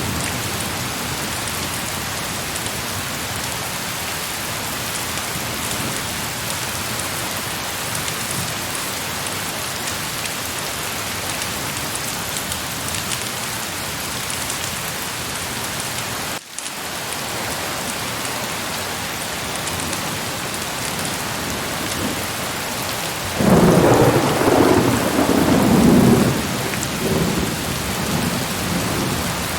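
Steady heavy rain, with a brief break about halfway through. Thunder rumbles loudly near the end for about three seconds, then fades back under the rain.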